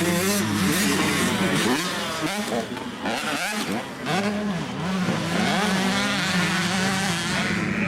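85cc two-stroke motocross bike engines revving up and down as the riders shift and work the throttle, the sound dropping away for a moment about three seconds in before climbing again.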